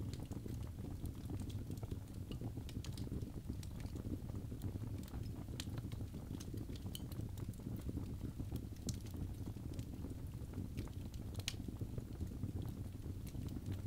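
Birch logs burning in a fireplace: a steady low rumble of flames with frequent, irregular sharp crackles and pops.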